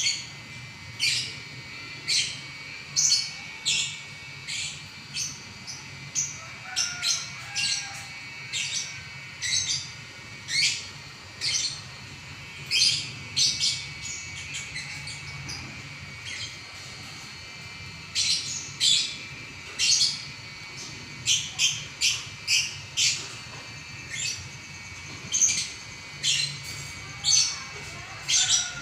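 Lovebird singing a long, unbroken chattering song (ngacor): a steady stream of short, shrill chirps and squeaks, about one or two a second.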